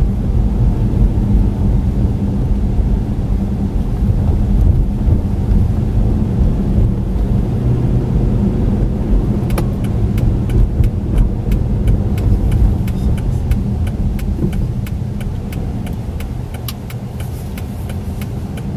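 A car driving, with the steady low rumble of engine and road noise. From about halfway through, a run of light, irregular ticks joins it.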